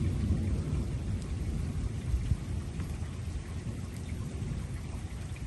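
Low, rolling rumble of a thunderstorm with rain, easing slightly toward the end.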